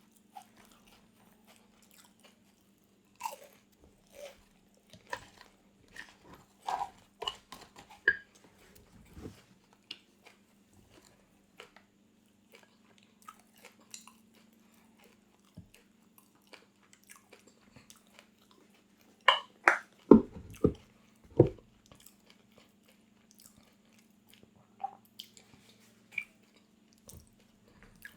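Close-miked biting and chewing of crunchy food, with scattered crisp crunches and a burst of loud, sharp crunches about two-thirds of the way through. A faint steady hum lies underneath.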